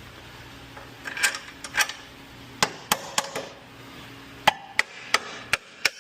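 A hammer tapping during a car suspension repair: about ten sharp, irregularly spaced knocks, quickening toward the end, the loudest about four and a half seconds in.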